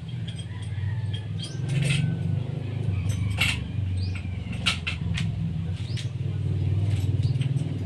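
A steady low engine hum, with scattered sharp clicks and taps over it.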